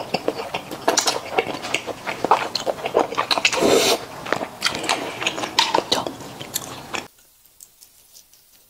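Close-miked chewing and slurping of thick, sauce-coated Xinjiang fried rice noodles, with dense wet mouth clicks. The sound drops away abruptly about seven seconds in, leaving only a few faint clicks.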